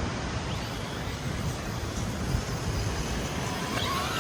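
Steady wind on the microphone with surf noise, and an RC truck's electric motor whine coming in faintly right at the end.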